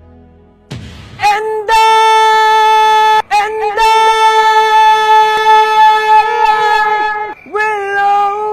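A voice belting one long, loud, wordless high note, held steady for about five seconds with a brief break, then scooping back up into it near the end.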